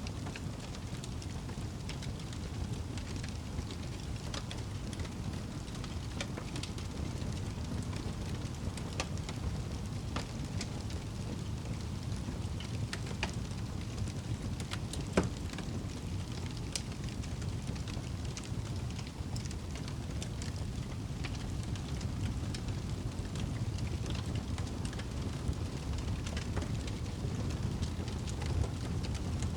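Wood fire burning in a fireplace: a steady low rumble of flame with scattered small crackles and pops, and one louder pop about halfway through.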